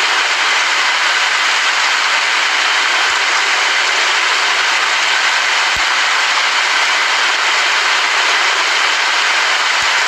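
Steady heavy rain: a dense, unbroken hiss of drops that holds the same level throughout.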